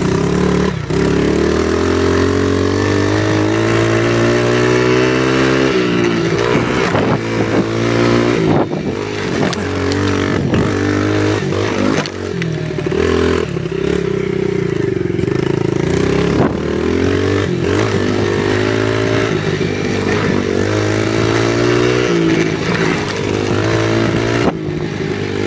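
Small off-road vehicle engine under way, its pitch rising and falling again and again as the throttle is worked, with a few sharp knocks.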